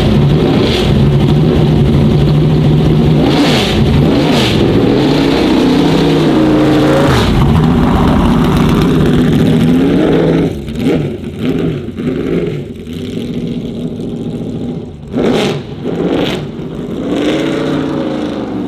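Lotus Emira GT4 race car's supercharged 3.5-litre V6 running hard on track, its pitch climbing and dropping again and again through gear changes, with a few sharp cracks. It gets quieter and more uneven about ten seconds in.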